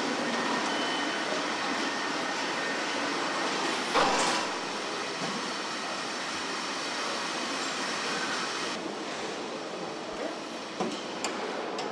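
Steady machinery noise on a truck assembly line, with one loud knock about four seconds in and a few short clicks near the end.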